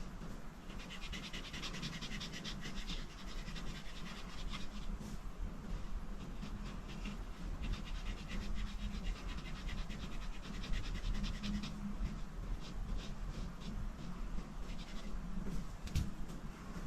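Rapid back-and-forth coloring strokes scratching on paper, in two long spells with shorter strokes near the end, over a faint steady low hum.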